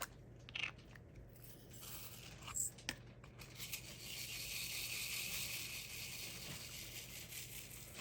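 Diamond painting supplies being handled: a few light clicks, then about four seconds of steady crinkling and rustling starting around three and a half seconds in.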